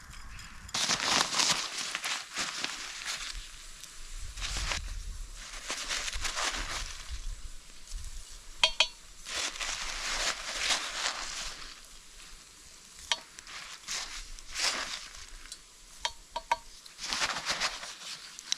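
Food sizzling in a frying pan and being stirred, the hiss surging with each stir. A few short metallic clinks of a utensil against the pan.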